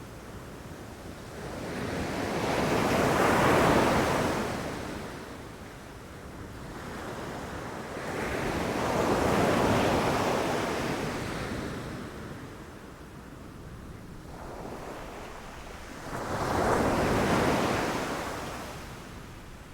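Sea waves breaking and washing up a beach, three times. Each one swells to a loud rush of surf and then fades back.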